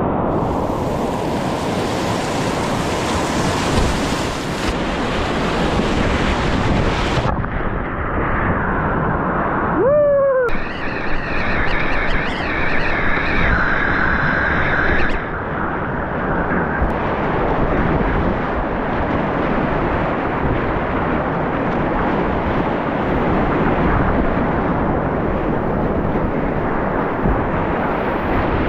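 Rushing creek whitewater, a loud, steady rush of water, with wind buffeting the microphone. About ten seconds in, a brief tone falls in pitch across it.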